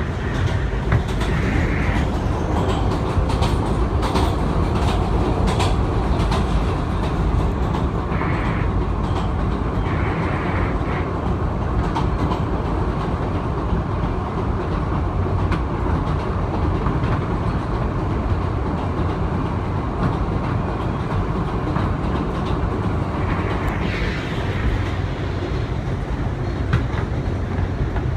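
R160B Siemens subway car running at speed, heard from inside the car: a steady rumble, with wheels clicking over rail joints mostly in the first several seconds.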